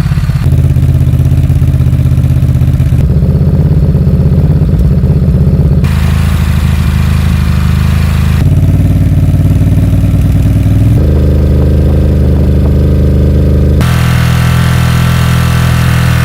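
Ducati Monster 950's Testastretta V-twin through a Termignoni exhaust, held at a series of steady engine speeds from idle upward. The pitch and tone jump abruptly every two to three seconds.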